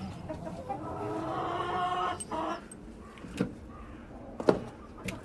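Domestic hen calling, one drawn-out call lasting about a second and a half, starting about a second in. Two sharp knocks follow, the second one near the end the loudest.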